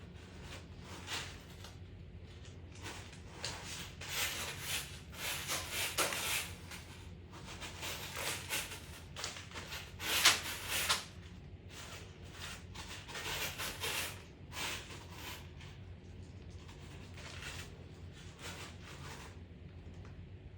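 A cat scratching and digging in cat litter, kicking and raking it over to cover its waste: irregular runs of gritty scrapes, loudest about halfway through and tailing off near the end.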